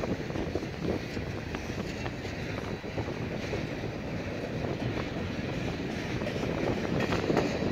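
Freight cars of a long mixed freight train rolling past: a steady rumble of steel wheels on rail with many scattered clicks, growing a little louder near the end.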